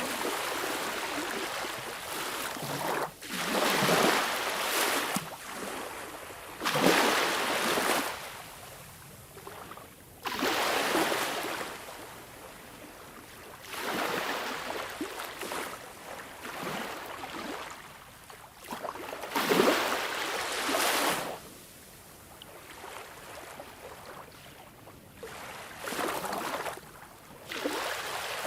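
Sea waves washing ashore: surf swells up and dies away every few seconds, some surges louder than others, with quieter wash in between.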